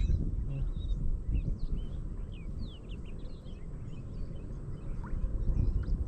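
Many small birds chirping in quick, short notes, some sliding down in pitch, over a steady low rumble.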